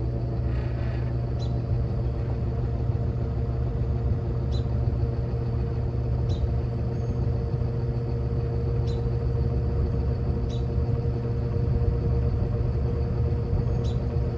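Evenflow by Robeson 20-inch box fan running on low speed, a steady motor hum with faint short ticks every second or two.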